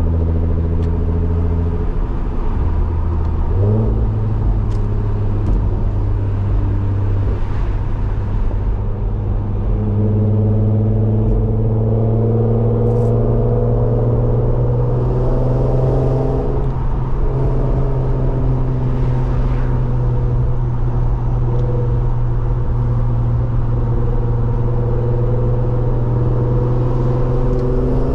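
Nissan VQ V6 engine with a loud exhaust under way while driving, a steady drone that steps up in pitch about four seconds in as the car pulls harder, then climbs slowly through the rest of the stretch.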